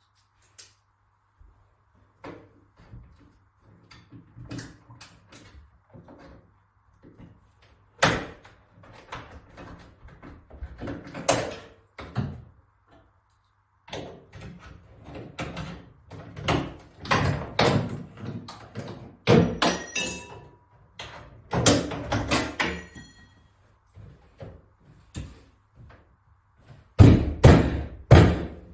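Irregular knocks, bangs and clatters from hands-on renovation work, busiest in the middle, with a run of three or four heavy thumps near the end.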